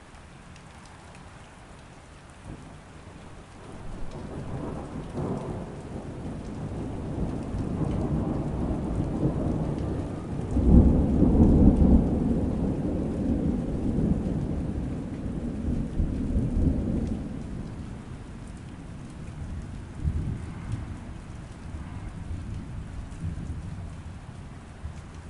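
Steady rain with a long roll of thunder that builds a few seconds in, is loudest around the middle, and rumbles away; a smaller rumble comes near the end.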